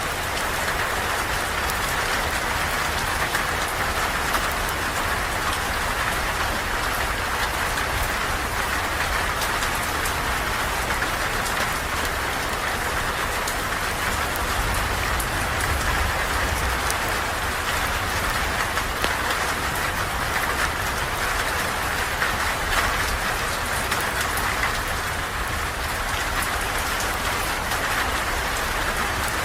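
Steady rain falling and pattering on surfaces: an even hiss with a low rumble underneath.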